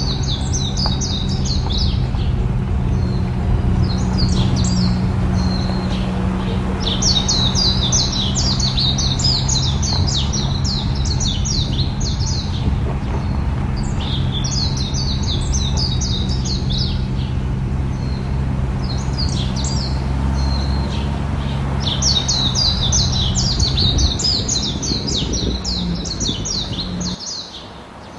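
Birds chirping in repeated bursts of rapid high notes, each burst lasting a few seconds, over a steady low hum that cuts off suddenly near the end.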